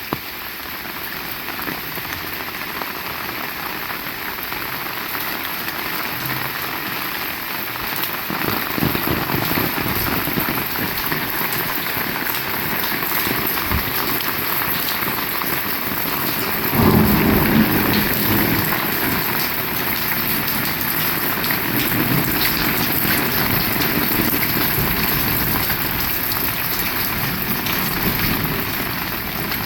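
Heavy rain falling steadily, with a low rumble of thunder starting a little over halfway through and rolling on for several seconds before fading.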